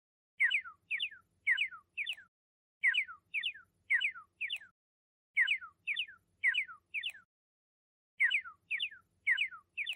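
Pelican calls: short squawks that each slide downward, coming in four groups of four, with a short pause between groups.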